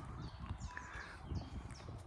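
Birds chirping, many short high calls that sweep downward in pitch, over a low uneven rumble.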